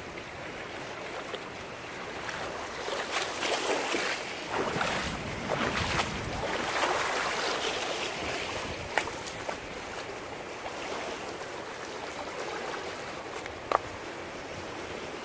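Heavy rain falling steadily, with gusts of wind on the microphone. The rain swells a few seconds in, and a couple of sharp ticks come near the end.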